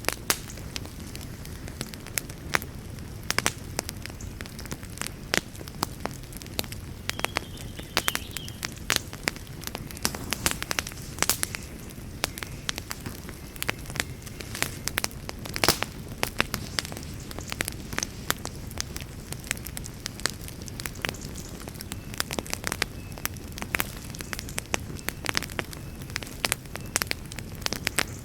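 Campfire crackling: irregular sharp pops and snaps, a few louder than the rest, over a steady low rumble of burning wood.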